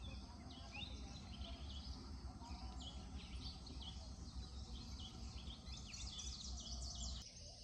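Morning birdsong in woodland: many small birds chirping and calling in quick short notes over a steady low rumble. The sound changes abruptly about seven seconds in.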